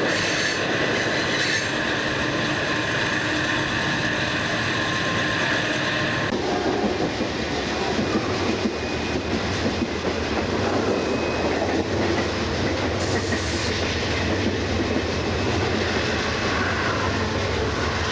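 Freight train running on the rails, with a steady high wheel squeal as it rounds a curve. About six seconds in the sound changes abruptly to the rushing rumble and wheel clatter of an Amtrak double-deck passenger car passing close alongside.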